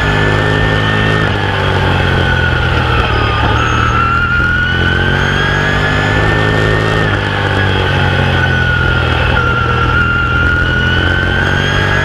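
Open-wheel modified race car's V8 engine heard from inside the cockpit at racing speed, its pitch climbing along each straight and dropping back through the turns, twice over. A high whine rises and falls with the revs.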